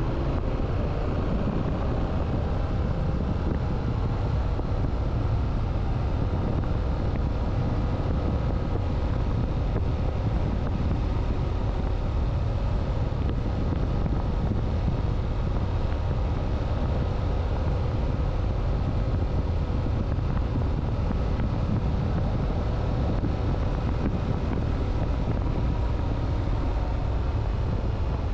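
Motorcycle engine running at a steady cruise, with wind rushing over the microphone: a constant low rumble with faint engine tones that drift slowly up and down in pitch.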